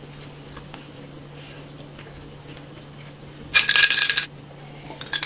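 A brief clattering clink with a ringing tone about three and a half seconds in, like a metal utensil knocking against a dish, and a smaller clink near the end, over a faint steady hum.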